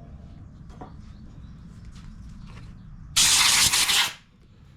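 A short, loud burst of hissing spray lasting about a second, starting about three seconds in and cutting off abruptly, after a few faint ticks.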